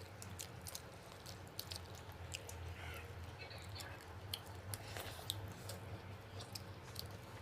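Close-up mouth sounds of fish being eaten: chewing with frequent short wet clicks and smacks.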